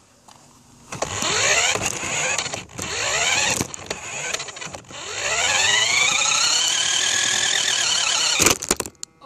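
Electric motor of a remote-control truck whining as it speeds up, its pitch rising three times, the last rise held high for a few seconds before it cuts off near the end.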